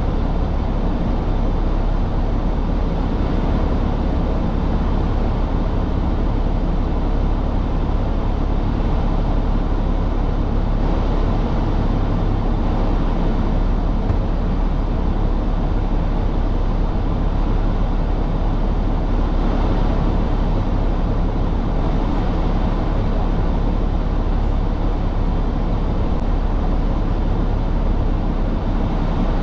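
Semi truck running, a steady low rumble of engine and road noise that holds level throughout with no sudden events.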